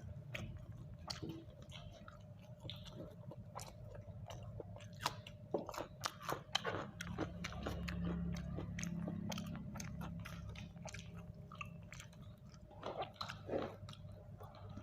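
Close-up mouth sounds of a person eating grilled chicken: chewing and biting with many short crunchy clicks. The clicks come thickest about five to seven seconds in and again near the end.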